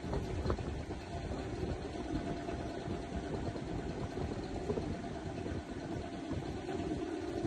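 Steady engine drone: a continuous low rumble with a few faint steady tones, unchanging throughout.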